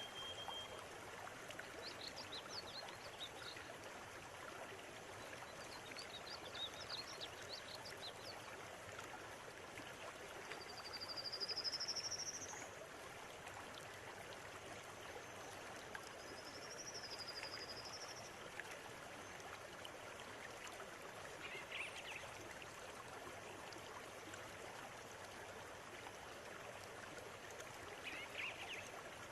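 River water flowing steadily over stones, with birds calling now and then on top: short chirps, a rising whistle near the middle that is the loudest sound, a swooping whistle a few seconds later, and a few brief calls towards the end.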